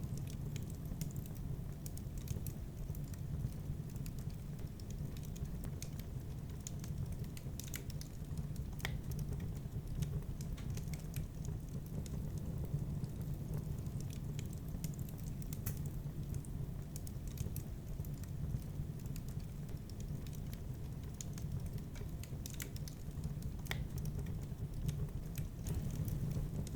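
Wood fire burning in a fireplace: scattered sharp crackles and snaps, irregular, over a steady low noise.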